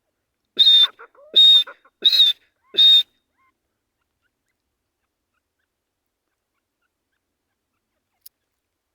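Male grey francolin (dakhni teetar) calling: four loud, harsh notes in quick succession, about one every 0.7 s.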